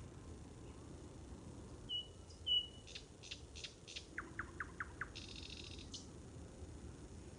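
Songbird singing: two short high whistles, then a run of sharp clicking notes, a quick series of falling notes and a brief buzzy trill, over faint steady background noise.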